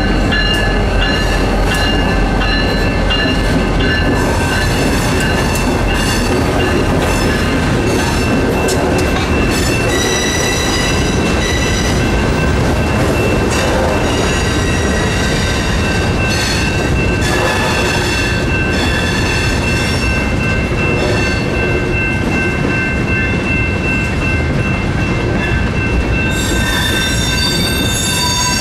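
Freight train passing over a grade crossing. The GP40M-2 and GP39-2 EMD diesel locomotives rumble by at the start, then freight cars roll through with wheels clattering and squealing on the rails. The crossing's General Signals electronic bell rings throughout.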